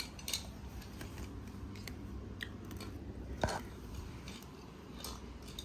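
Light scattered clicks and taps of small die-cast toy cars being handled and set down, with one sharper click about three and a half seconds in.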